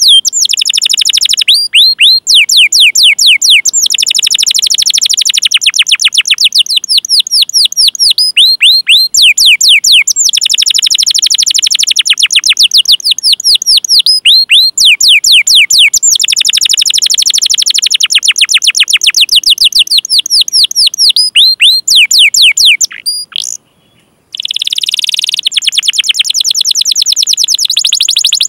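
Domestic canary singing loudly: fast runs of high, downward-sweeping 'cuit cuit' call notes, many a second, in phrases of a few seconds with short breaks. Near the end, after a moment's silence, the song turns into a dense, buzzy roll.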